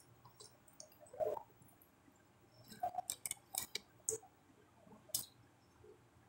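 A person chewing and lip-smacking while eating fish moqueca by hand: a faint scatter of short wet mouth clicks, thickest in the middle.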